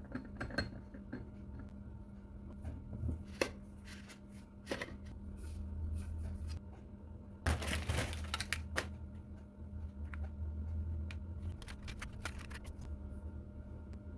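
Small clicks and taps of objects being handled, with a rustling, crinkling burst about halfway through, over a steady low hum.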